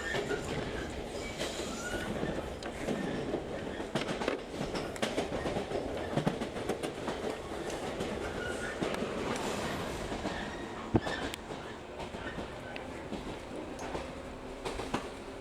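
Running noise of a local passenger train heard from inside the car, with the wheels clicking over rail joints. A single sharp click stands out about eleven seconds in, and near the end the noise settles quieter into a steady hum.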